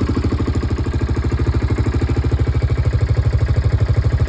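1998 Yamaha Grizzly 600 ATV's single-cylinder four-stroke engine idling steadily with an even beat.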